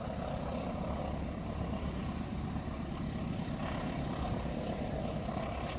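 Diesel locomotive engine running with a steady low rumble as a train comes near.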